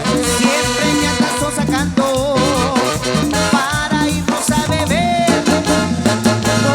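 Live band playing an instrumental stretch of a Latin tropical dance song, with a steady beat and a wavering lead melody.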